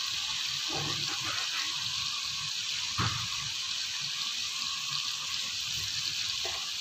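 Chicken frying in ghee and its own juices in a kadai, a steady sizzling hiss. A light knock about three seconds in.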